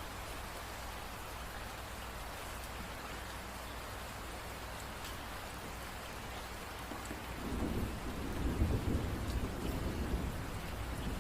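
Steady rain falling as an even hiss, with a low rumble of thunder coming in about seven seconds in.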